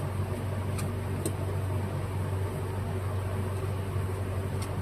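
Steady mechanical hum with a constant low drone and hiss, like a running fan or air unit, with a few faint light clicks about a second in and again near the end.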